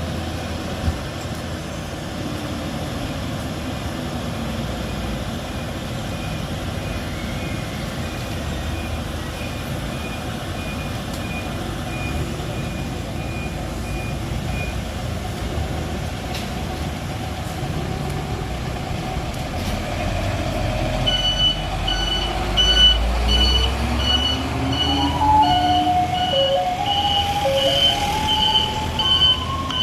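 Isuzu FVR garbage truck's diesel engine running, with a faint regular beeping from about 5 to 15 seconds in. Past the twenty-second mark the engine grows louder, a loud regular reversing beep starts, and a few seconds later the truck's music-box melody begins playing over it.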